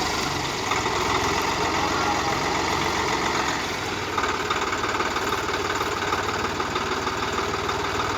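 Swaraj tractor's diesel engine running steadily, its firing pulses a fast, even beat.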